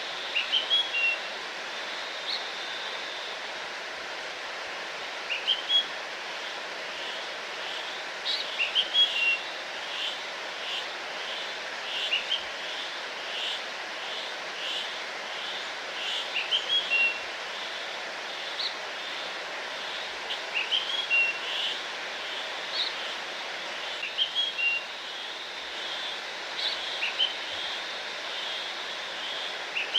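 Small songbirds singing short, high phrases every few seconds over the steady rushing of a waterfall. Through the middle stretch one bird repeats a short note about twice a second.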